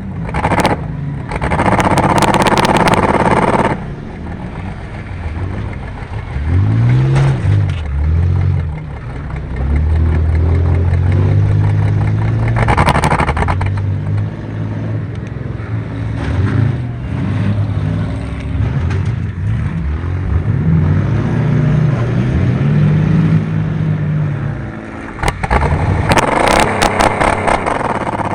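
Race car engine revving up and down hard as it accelerates and lifts. Loud stretches of rushing, rattling noise come and go near the start, about 13 seconds in, and near the end.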